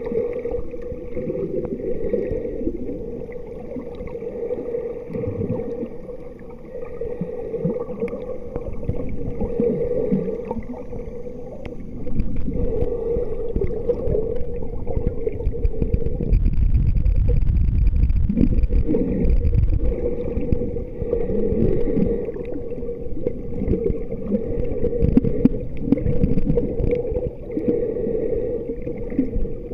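Muffled water sloshing and gurgling with a steady hum, and a heavier low rumble coming in about twelve seconds in.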